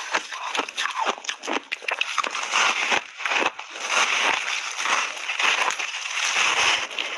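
A person biting and chewing big chunks of refrozen buckwheat ice: a dense run of irregular crunches and crackles, heaviest and most continuous from about two and a half seconds in.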